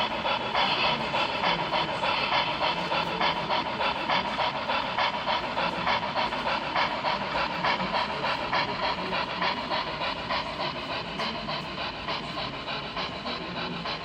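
Model steam locomotive chuffing in a steady rhythm, several chuffs a second, easing off slightly near the end.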